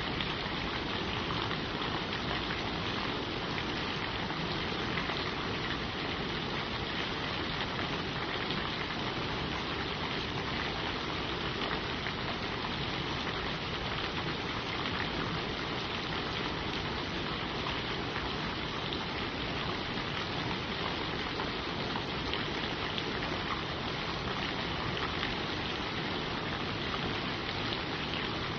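Steady rain falling on forest leaves, an even hiss with no breaks or single loud events.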